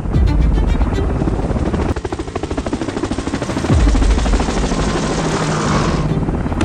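Rotorcraft rotors beating with a rapid, steady chop over a heavy low rumble, as of a helicopter or tiltrotor in flight.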